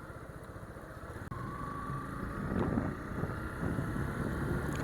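Motorcycle engine running as the bike is ridden slowly, a steady rapid low pulsing that grows louder from about two seconds in.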